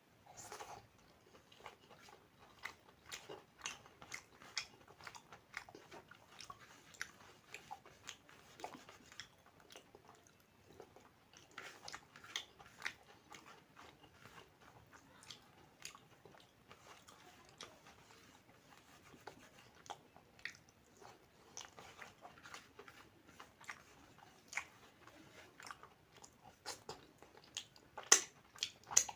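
Close-up chewing and biting sounds of a person eating neem begun (fried eggplant with neem leaves) and rice, with many small irregular crunches and wet mouth clicks.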